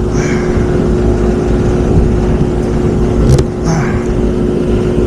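Rooftop commercial HVAC unit running with a steady mechanical drone: a low rumble and a constant hum, while it produces condensate. A sharp click about three and a half seconds in.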